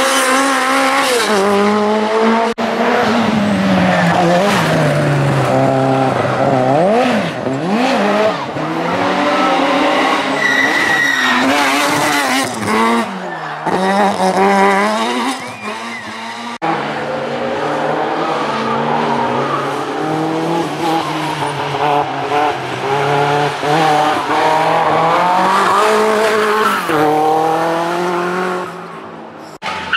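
Group B rally car engines at full throttle, revving up and dropping repeatedly as they shift through the gears, with tyre and gravel noise. The sound changes abruptly a couple of times where clips are cut together.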